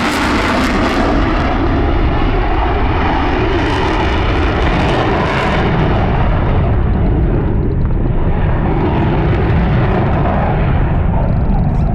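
Loud jet noise from a Eurofighter Typhoon's twin EJ200 engines as the jet flies its display. The high hiss fades after about six seconds, leaving a deep, steady rumble.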